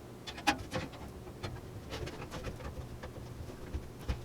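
Scattered light clicks, taps and scrapes of a motherboard being handled and lowered into a computer case, pressed against the back-panel I/O shield in a tight fit.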